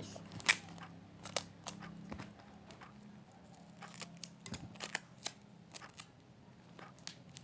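Scissors snipping: a scattering of sharp, irregular clicks with short pauses between them.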